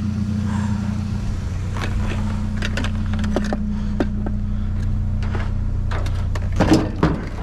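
A vehicle engine idling steadily, with scattered knocks and clatters of junk being moved about in a dumpster, and a louder clunk near the end.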